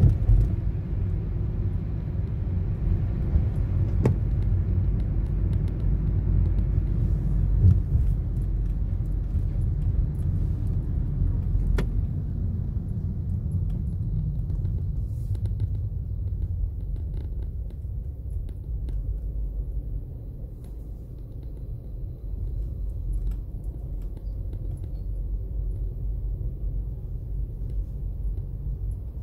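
Toyota Corolla driving on a wet road, heard from inside the car: a steady low rumble of engine and tyres with some hiss. It eases off and gets quieter a little past halfway.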